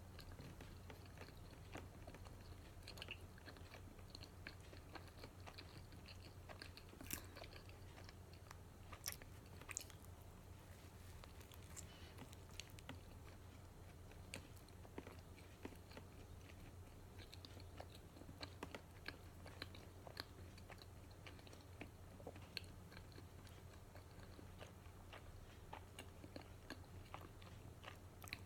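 A person chewing and biting matcha donuts close to the microphone: faint mouth clicks all through, with a few sharper bites about seven and ten seconds in, over a low steady hum.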